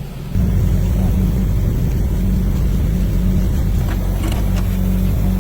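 Toyota car engine running steadily at idle. It comes in suddenly about a third of a second in.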